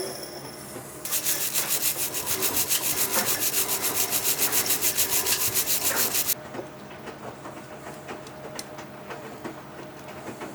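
Rapid back-and-forth hand scraping of paint and zinc primer off a steel turbine part, about a second in until about six seconds in, followed by quieter, lighter scraping.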